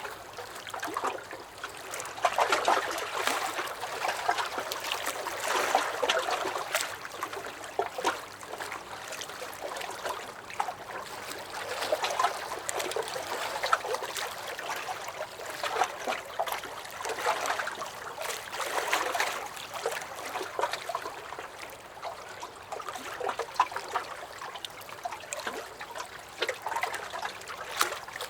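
Small lake waves lapping and sloshing against a dock. The sound swells and ebbs every couple of seconds, with small splashes and drips.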